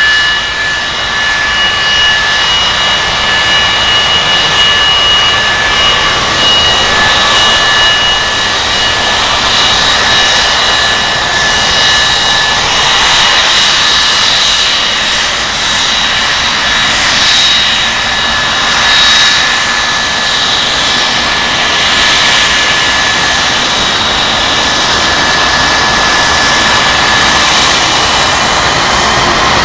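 Airliner jet engines running loudly for the whole stretch, a steady rushing noise with several high whine tones on top. The tones shift about midway and begin to rise near the end.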